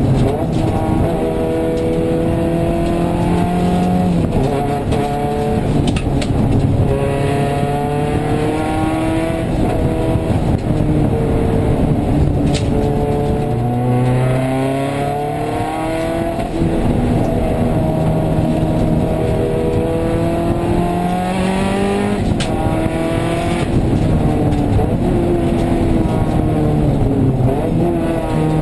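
Nissan 180SX rally car's turbocharged four-cylinder engine under hard acceleration, heard from inside the cabin: the engine note climbs in pitch through each gear and drops back at every shift. A few sharp cracks cut through it.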